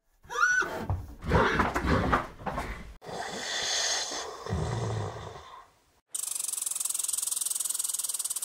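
Animal sounds cut one after another: a short call that rises in pitch, followed by grunts. Then a noisy rasping stretch, and from about six seconds in a fast, high-pitched buzzing rattle.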